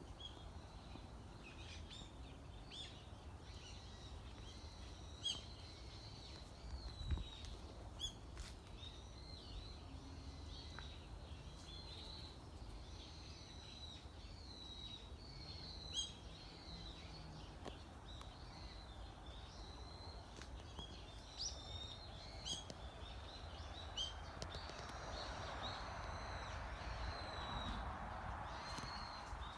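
Wild songbirds chirping and singing, a steady scatter of short high notes throughout, over a low background rumble. A soft hiss of background noise swells in the last few seconds.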